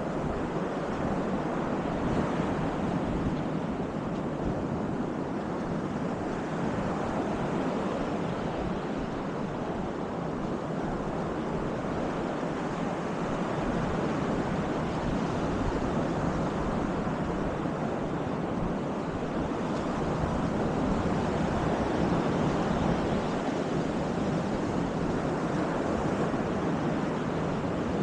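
Baltic Sea surf washing onto the beach: a steady rush of breaking waves that swells and eases slowly, with wind buffeting the microphone.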